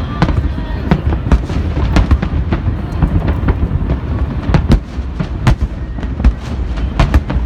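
A fireworks display going off in a dense volley: rapid, irregular sharp bangs over a continuous low rumble.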